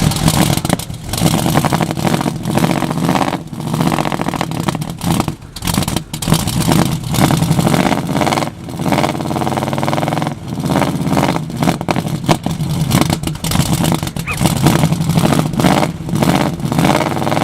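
1973 Chevrolet Monte Carlo's V8 running just after a cold start, with the revs rising and falling unevenly. The car has sat unstarted for over half a year.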